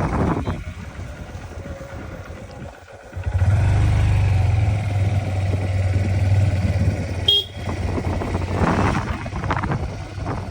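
A motor vehicle's engine runs with a steady low hum for about four seconds, cutting off with a sharp click, amid road noise.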